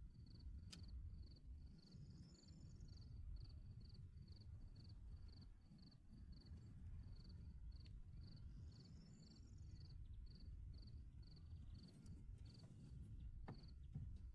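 A cricket chirping faintly and steadily, about three chirps a second, over a low outdoor rumble. There are a few faint clicks, and twice a brief higher warble.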